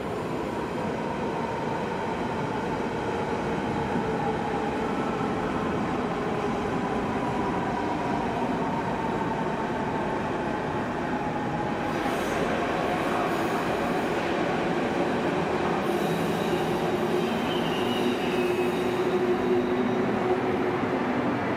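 Electric trains in a station. First a train moves off into the distance with a whining tone that slowly falls in pitch. About halfway through, a DB class 182 electric locomotive hauling a regional express rolls in, with steady whines from its drive over the running noise of its wheels, growing louder toward the end.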